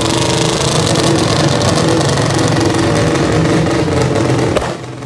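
Three-rotor rotary engine in a Mazda RX-7 running loudly and steadily. A sharp click comes near the end, after which the engine sound drops off.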